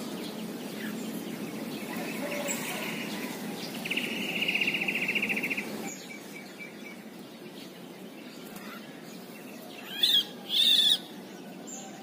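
Bird calls in a banyan tree: a fast buzzy trill lasting about two seconds, then two short, loud, harsh calls near the end.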